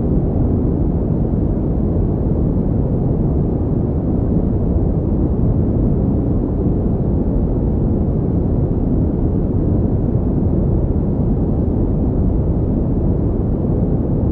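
Steady synthetic pink noise: an even, unbroken deep hiss, heaviest in the bass, with no changes or events.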